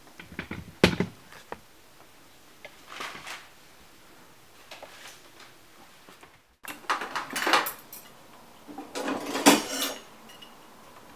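Hand tools and metal plumbing fittings clinking and knocking while a water shutoff valve is being replaced. There are scattered sharp clicks first, then two louder bursts of clatter in the second half.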